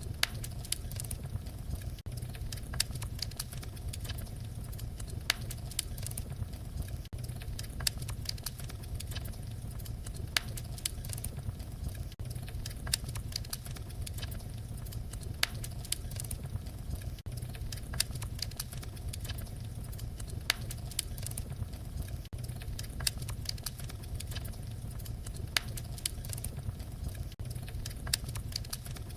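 Wood fire crackling: frequent irregular sharp pops and snaps over a steady low rumble of the flames.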